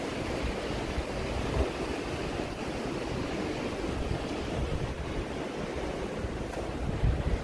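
Fast river water rushing steadily, with wind buffeting the microphone in low, uneven gusts.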